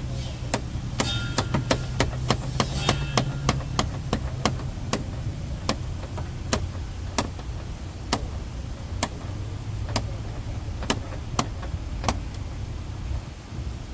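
A run of sharp, irregular clicks, about three a second at first, thinning after about four and a half seconds to roughly one every second or less, over a low steady hum.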